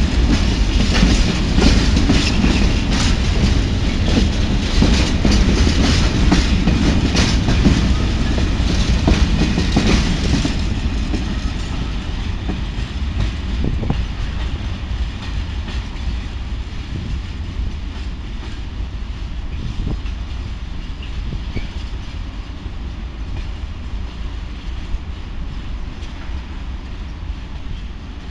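A train passing at speed, its wheels clattering over the rail joints, then fading away as it recedes after about ten seconds.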